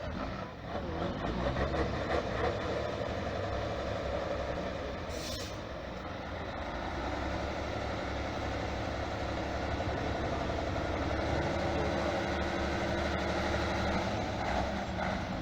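Trial truck's diesel engine running steadily under load, its pitch and level rising somewhat in the second half, with a short hiss of released air about five seconds in.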